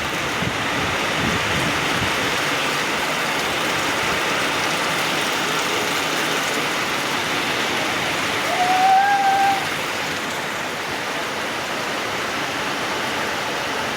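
Heavy rain falling steadily, a dense even hiss. About nine seconds in, a single short pitched call, about a second long and rising slightly, sounds over it.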